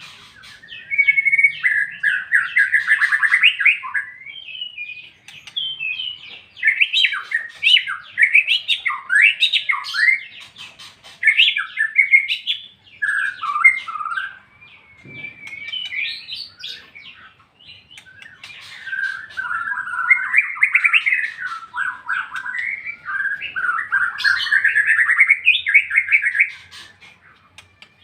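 White-rumped shama singing a loud, clear 'ngeplong' song: long runs of varied whistled and chattering phrases, with short pauses about four seconds in and again about two-thirds of the way through.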